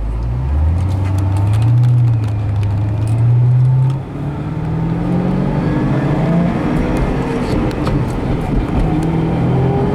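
Supercharged 4.6-litre V8 of a 2007 Saleen S281 Mustang accelerating: engine pitch climbs for about four seconds, drops sharply at a manual upshift, then climbs again and levels off.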